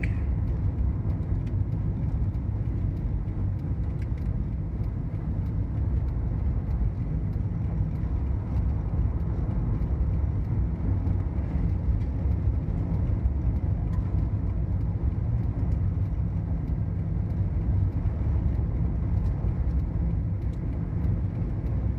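Steady road and engine noise heard inside a moving car's cabin: an even low rumble with no change in speed or gear.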